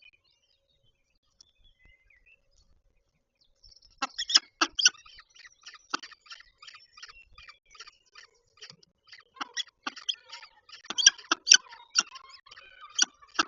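Short, sharp chips and ticks from the peregrine falcon nest ledge, coming several a second in a quick, irregular series. They start about four seconds in and grow busier and louder near the end.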